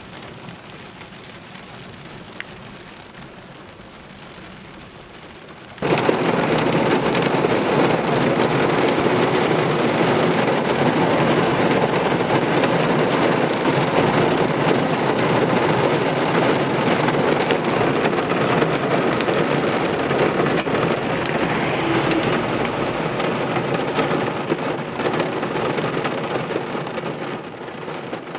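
Rain beating on a car's windshield and roof, heard from inside the car. About six seconds in it jumps abruptly from a moderate patter to heavy, dense rain, which eases slightly near the end.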